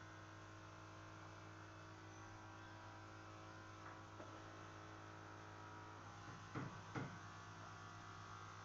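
Faint steady electrical mains hum, with two light knocks about half a second apart near the end.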